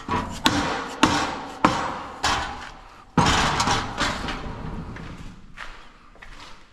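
Exhaust pipe being yanked and knocked loose: a run of sharp metal knocks about half a second apart, then a louder clanking hit about three seconds in that rattles and dies away.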